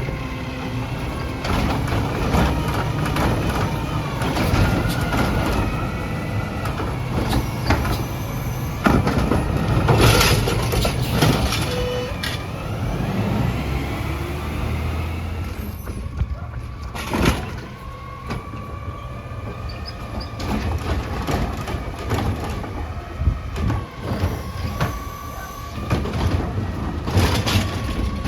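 Autocar ACX garbage truck at work: its engine runs steadily under scattered clanks and knocks, with a sharp air-brake hiss about ten seconds in.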